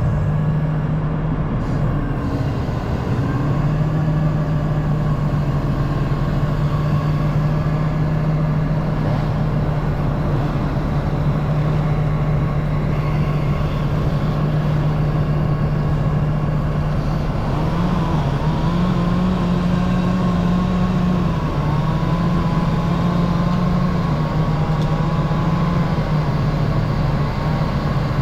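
Excavator diesel engine running steadily with a hydraulic whine; the pitch steps up and wavers a few times in the second half.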